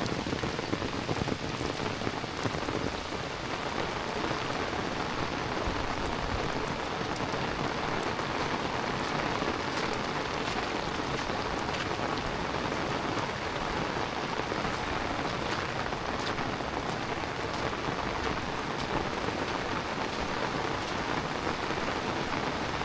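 Heavy rain falling steadily, a dense even hiss with many individual drops ticking on hard surfaces.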